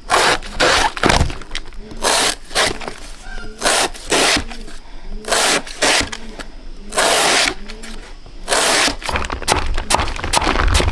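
A run of crisp crackling snaps and scrapes, about one or two a second, each lasting a fraction of a second.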